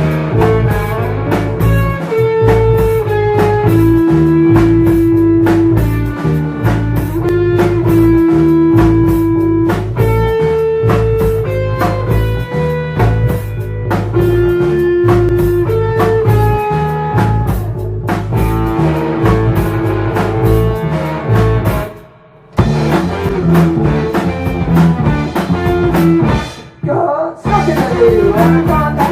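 Live blues-rock band playing an instrumental stretch: electric guitar holding long lead notes over bass and drum kit. The band cuts out for a moment twice near the end.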